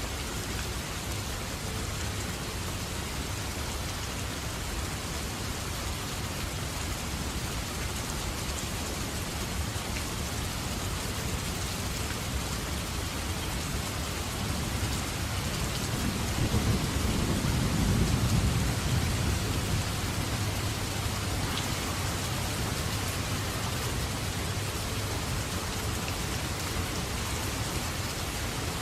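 Steady heavy rain, with a low roll of thunder that builds from about halfway through, peaks and fades a few seconds later.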